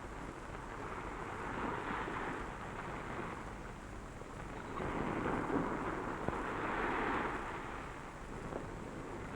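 Sea surf washing on a rocky beach: a steady rush of noise that swells twice, with a faint click in between.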